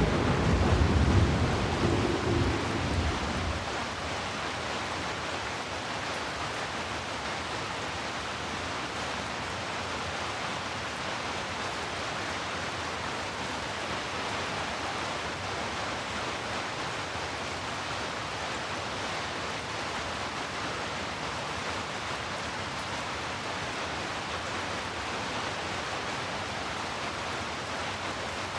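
Steady heavy rain. A low rumble of thunder, the loudest sound here, dies away over the first three or four seconds.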